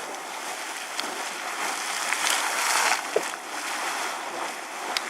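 Sawmill Geyser, a fountain geyser, erupting: hot water splashing and surging from its crater in uneven pulses, with a few sharp clicks.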